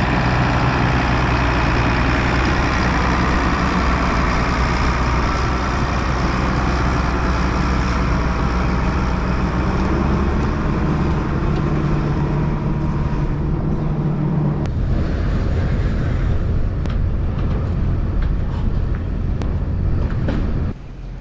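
Farm vehicle engine running steadily with a low drone. Its tone shifts about two-thirds of the way through, and the sound drops off sharply just before the end.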